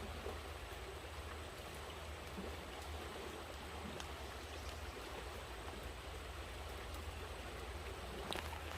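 Steady rush of a flowing stream, with a low rumble beneath and a few faint clicks about four, seven and eight seconds in.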